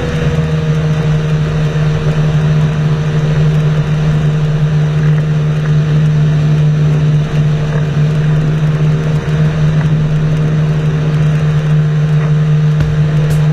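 Engine running steadily at a constant speed, a loud even drone with no change in pitch.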